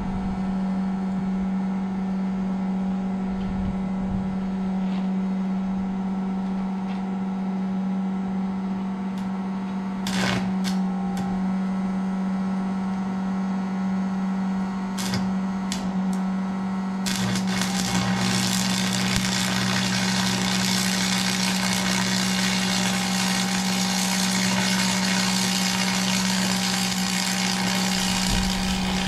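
A steady motor hum held at one constant pitch. A few sharp clicks come about ten and fifteen seconds in, and about seventeen seconds in a loud, even hissing noise joins the hum and keeps on.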